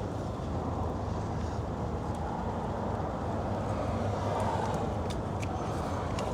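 Steady low background vehicle rumble with a few faint clicks.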